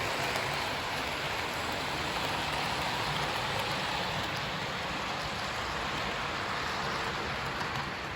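Hornby OO-gauge model trains running around the layout: a steady rushing whir of motors and wheels on the track, easing slightly near the end.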